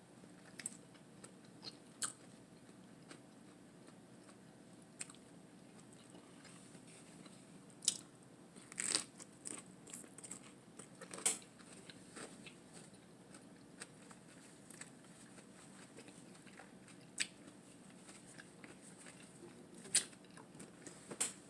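Close-up mouth sounds of someone eating lettuce wraps: crisp lettuce crunching in scattered bites and chewing, with a cluster of crunches about halfway through.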